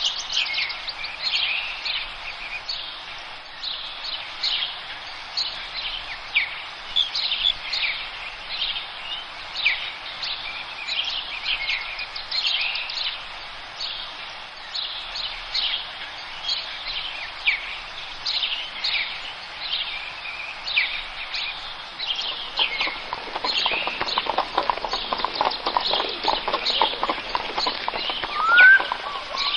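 Forest birds singing: many short, quick, falling chirps overlapping all through. About two-thirds of the way in, a lower, rapid chattering joins them, and near the end come a few short rising whistles.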